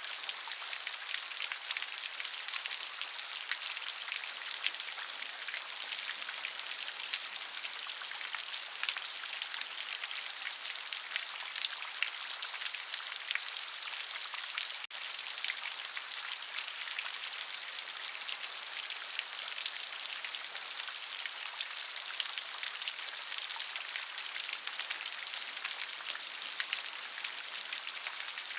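Steady rain: a dense, even patter of many drops with a hissy, high-pitched wash and no thunder. A split-second dropout breaks it about halfway through.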